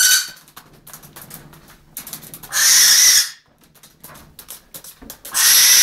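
Barn owl giving long, harsh hissing screeches, one ending right at the start, another in the middle and a third starting near the end, with faint clicks between them.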